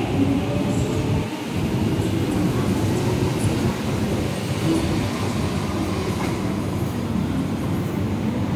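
MTR East Rail Line electric train running along the platform, a steady rumble of wheels on rail with some clickety-clack and the hum of its motors.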